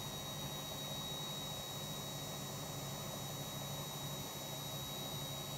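Miele W3241 washing machine on its spin cycle, the drum spinning below top speed: a steady hum and whir with a thin, steady high-pitched tone over it.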